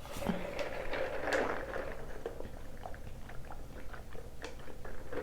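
Close-miked chewing and mouth sounds of someone eating carne asada fries: many small wet clicks and smacks at an irregular pace.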